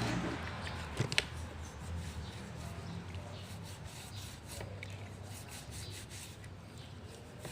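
A grease-caked grease-gun part being rubbed clean by hand in degreaser, an irregular scraping and rubbing, with two sharp knocks about a second in.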